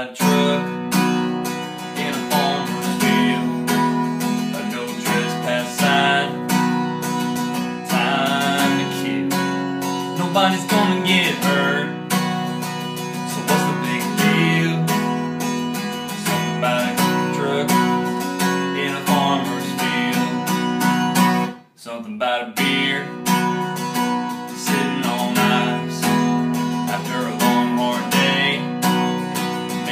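Strummed acoustic guitar playing a country song, with a man's singing voice over it. The music breaks off briefly about two-thirds of the way through.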